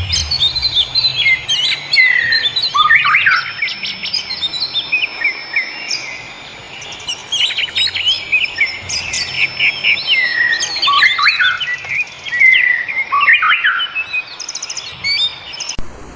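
Several birds chirping and calling over one another: a busy mix of quick rising and falling chirps and trills, with a few longer, steady high whistles. It starts and stops abruptly.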